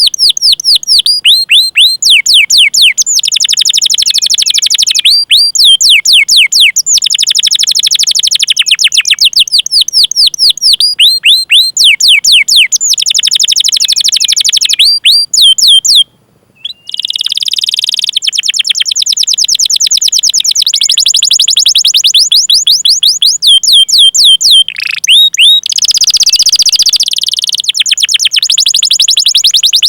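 Domestic canary singing loudly in long phrases: fast series of falling whistled "cuit cuit" notes alternating with rapid rolling trills, with a brief break about halfway through.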